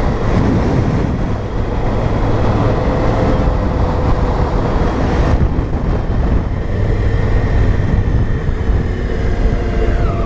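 Honda Africa Twin's parallel-twin engine running steadily at cruising speed, with road and wind noise.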